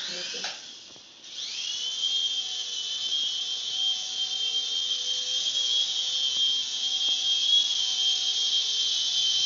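A small high-speed electric motor spins up with a rising whine about a second in, then runs steadily at a high pitch.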